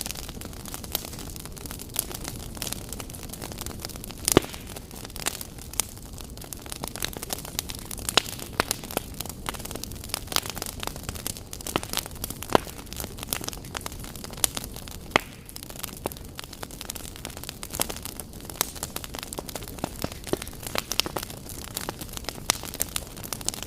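Wood fire crackling in a fireplace: irregular sharp pops and snaps over a steady low hiss, the loudest pop about four seconds in.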